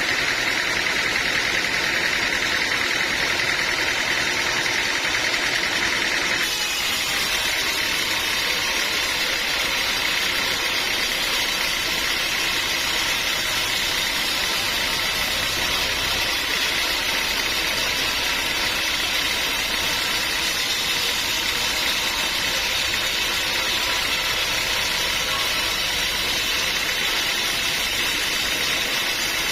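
Sawmill machinery running steadily, a continuous loud mechanical noise. Its tone changes abruptly about six seconds in.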